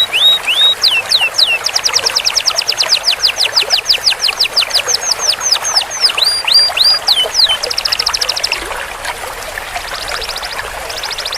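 Domestic canary singing rapid trills: long runs of quick, high sweeping whistled notes, several a second, with a short, even faster roll about eight seconds in and a brief pause just after.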